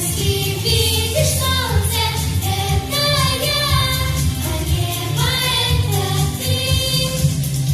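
A children's vocal trio singing a song over an instrumental backing track.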